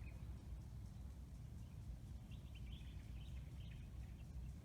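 Faint bird chirps, a short cluster about halfway through, over a low steady background hum.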